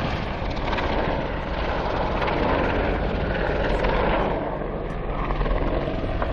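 Boeing AH-64 Apache attack helicopter flying low, a steady rotor and engine noise that swells through the middle and eases off slightly near the end.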